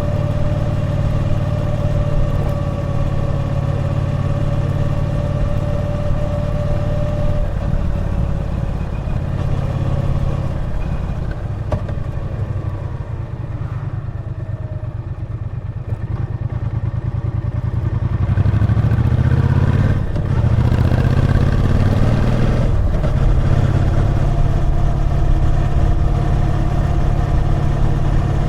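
Triumph Bonneville T120's 1200 cc parallel-twin engine under way. It holds a steady pace, then is eased off for several seconds with the revs falling. From about two-thirds of the way in it is opened up again, the revs climbing with two brief breaks like gear changes, before settling into a steady drone.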